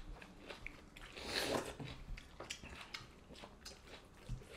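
Close-up eating sounds of people eating rice and curry by hand: chewing with wet mouth clicks and smacks, scattered small clicks throughout and a brief louder rustle a little after a second in.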